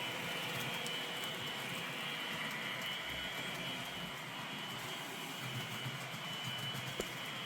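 Model Pendolino train with a sound decoder running steadily on the layout: a steady electric-train running sound with a high whine, and a single faint click about seven seconds in.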